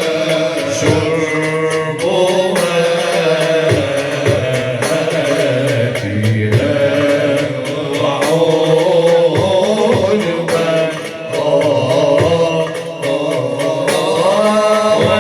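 Arabic nasheed ensemble performing: voices singing a long, ornamented melody over steady drum percussion.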